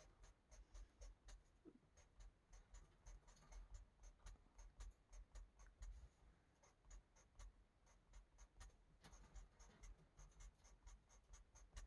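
Faint, quick scratches of an Ohuhu marker nib on a colouring book page, drawing small X strokes a few times a second.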